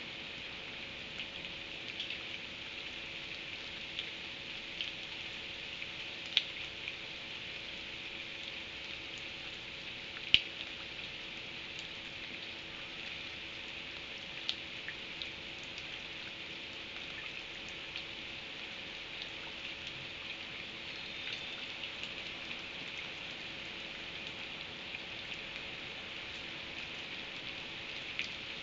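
Steady hiss of rain falling, with scattered sharp taps of drops striking a surface; two louder taps come about six and ten seconds in. A faint steady hum lies underneath.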